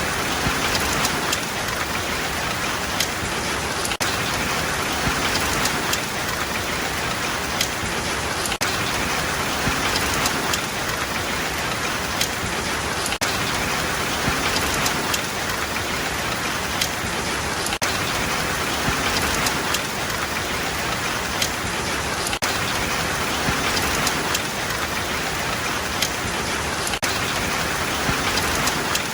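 Steady rain falling on a surface, an even hiss with scattered sharper drop impacts now and then.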